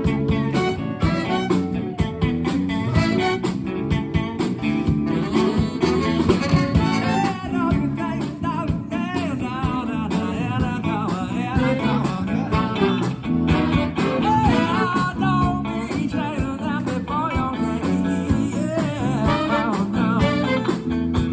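A band playing: guitar-led music with a steady beat, in a blues or jazz style, with a voice or lead line wavering over it.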